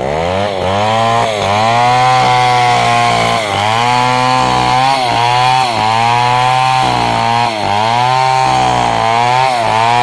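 Two-stroke chainsaw, an imitation Stihl, running at high revs while ripping a timber beam lengthwise. Its engine note dips briefly about six times as the chain bogs under load in the wood.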